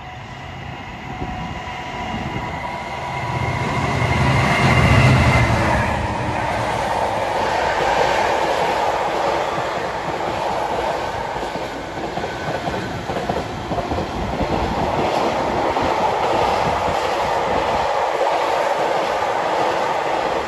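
Freight train passing: the locomotive's low engine rumble swells to its loudest about five seconds in, then a long string of wagons rolls past with a steady, loud rolling noise on the rails.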